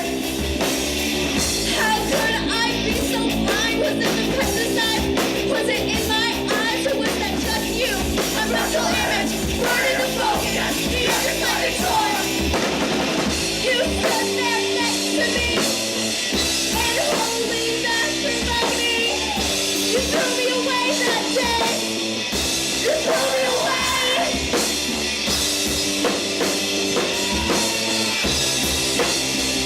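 Live rock band playing: drum kit, guitars and bass keeping a steady beat, with singing over the top at times.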